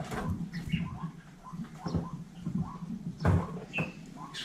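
Hill myna making short, soft chirping calls, broken by a few sharp knocks, the loudest about three seconds in.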